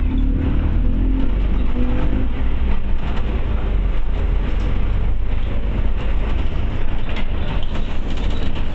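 Inside a Scania OmniCity bus on the move: a steady deep rumble from the engine and drivetrain, with a humming note near the start that fades and comes back near the end. Panels and fittings rattle throughout.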